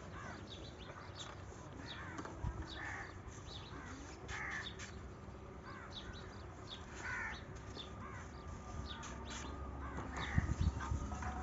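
Birds calling: a harsh, crow-like call repeated every couple of seconds, with quick high chirps between. A few low thumps near the end.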